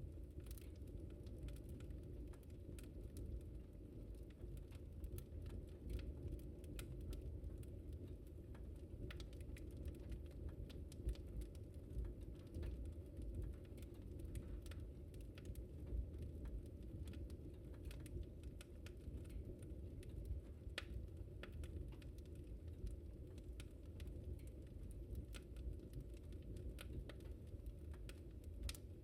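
Fire in a fireplace crackling: many small, irregular pops and snaps over a steady low rumble.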